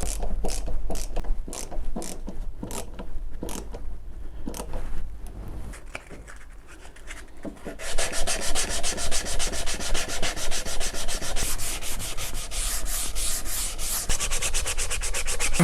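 Small 15 mm screws being driven into wood. A few separate clicks come first, then a fast, rasping run of clicks from about halfway in.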